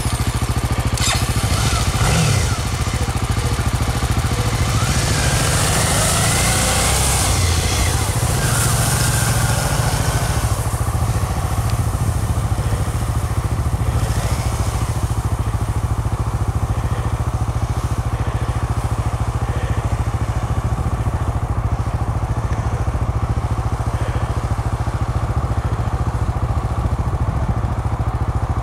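Motorcycle engine running under way, its note shifting a little in the first ten seconds and then holding steady.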